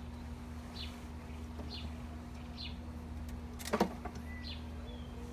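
A bird chirping repeatedly, short falling chirps about once a second, over a steady low hum. About four seconds in there is one sharp knock of wooden hive parts being handled, and a dove coos softly near the end.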